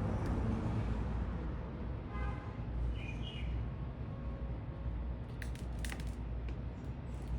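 A few short bird chirps over a steady low rumble of city traffic, with a quick cluster of sharp clicks a little past the middle.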